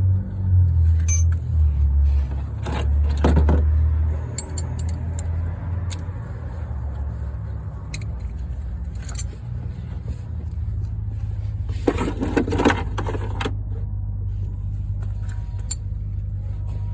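Metal tools and parts clinking and rattling in scattered clicks, with a denser clatter about twelve seconds in, over a steady low rumble.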